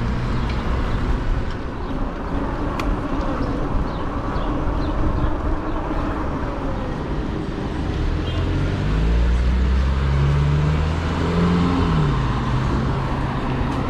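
Steady road and wind rumble while riding among traffic. From about eight seconds in, a motor vehicle's engine grows louder, its pitch rising and then dropping as it goes by.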